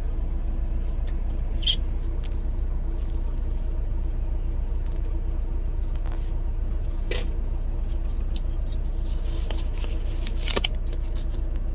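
Steady low rumble and hum of a parked semi truck's engine idling, with a few sharp clicks and rustles of things being handled about two, seven and ten seconds in.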